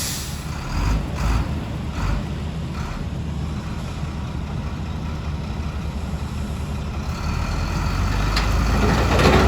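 Heavy diesel engine of an earthmoving machine running steadily with a low rumble. A few dull knocks come in the first two seconds, and it grows louder near the end as clatter starts.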